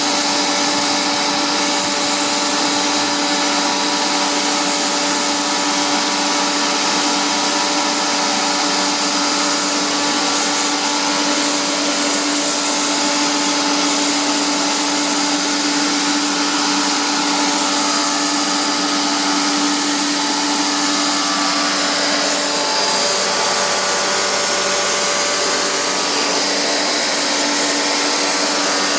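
A small electric motor running steadily with a whine over a hiss. Its tone changes about two-thirds of the way through.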